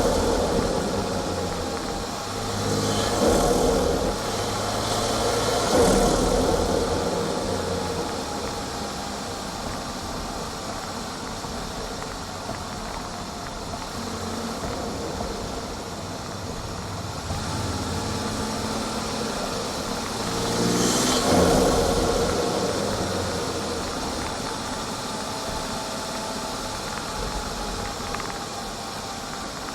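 BMW 440i's B58 turbocharged straight-six heard right at its front-mount intake while driving: a steady drone broken by several swells of intake noise and turbo whoosh as the throttle opens and the revs climb and fall. The biggest pulls come about three, six and twenty-one seconds in, and the one at six seconds cuts off sharply.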